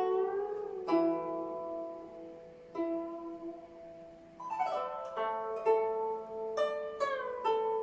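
Guzheng played solo: single plucked notes ringing out, some bent and wavered in pitch after the pluck, fading to a soft sustained note, then a quick glissando sweep across the strings about halfway through, followed by further plucked notes.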